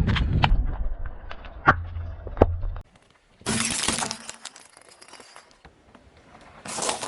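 Objects cracking and shattering as they are crushed under a car's tyre, a series of sharp cracks over a low rumble that stops abruptly about three seconds in. Two shorter bursts of noise follow, one near the middle and one near the end.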